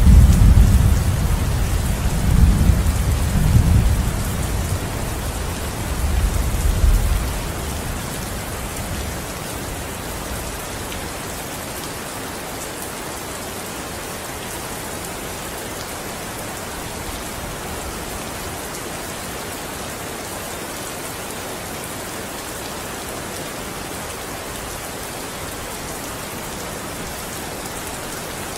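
Steady rain falling, with a low roll of thunder over the first several seconds that dies away by about eight seconds in.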